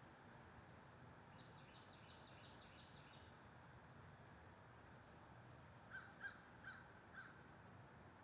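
Faint steady wind noise with birds calling: a quick run of about six repeated chirps about a second in, then four short calls about half a second apart near the end.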